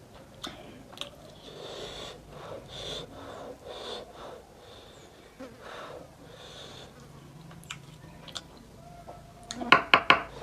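Close-miked eating sounds of a person eating spicy mutton nalli: a series of airy sucking or breathing draws about once a second, then a quick burst of sharp, loud smacking clicks near the end.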